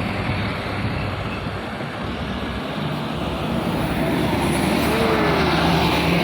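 Heavy diesel trucks and a bus running uphill under load, a dense engine drone with steady low tones. The drone grows louder over the last few seconds as a vehicle closes in.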